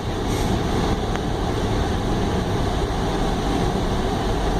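Car cabin noise while driving: a steady low rumble of road and engine, rising slightly in the first second and then holding even.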